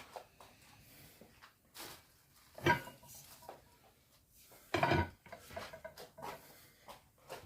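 Metal tools knocking and clinking on a manual tyre changer and wheel while working a tyre bead: a handful of separate clanks, the two loudest about three and five seconds in with a brief metallic ring, and light handling and rubbing between them.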